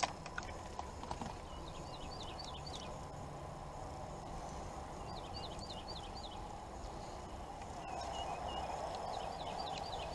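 A bird singing in the background: three short phrases of four or five quick, high chirping notes, over a steady hiss. A few light clicks come near the start.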